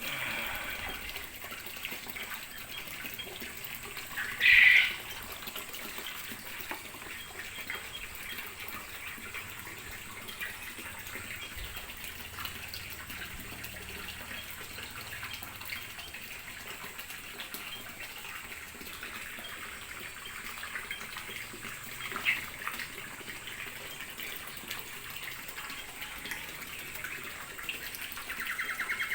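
Water running steadily, with a brief louder sound about four and a half seconds in and a shorter, sharp one later on.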